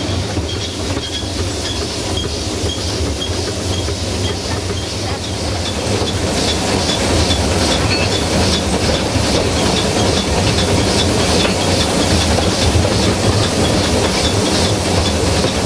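Narrow-gauge train hauled by steam locomotive 762.209, running along the line and heard from aboard: a steady rumble of wheels on rails with a regular light ticking. It grows slightly louder about six seconds in.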